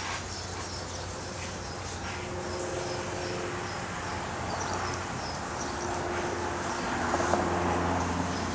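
Small birds chirping now and then over a steady low engine hum, which grows louder near the end as a vehicle draws near.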